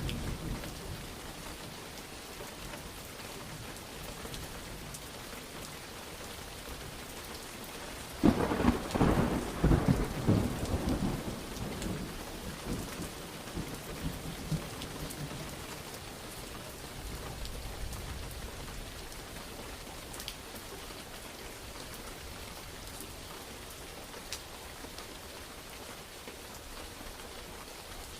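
Steady rain falling, with a sudden crack of thunder about eight seconds in that rumbles and dies away over the next several seconds.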